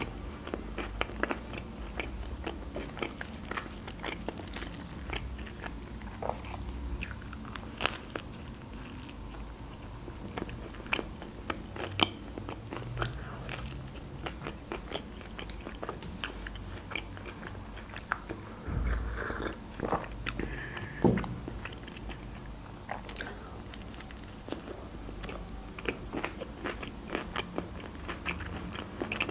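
Close-miked biting and chewing of an open sandwich of bread, cream cheese, cucumber, sprats and lettuce leaves: crisp crunches and many short wet mouth clicks, with no talking.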